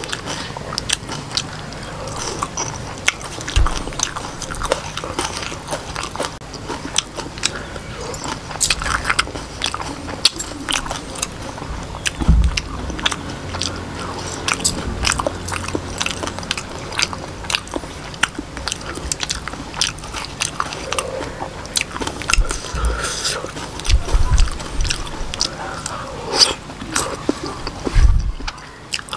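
Close-miked chewing and crunching of octopus with Khmer rice noodles and raw vegetables, with many short, irregular wet mouth clicks and smacks.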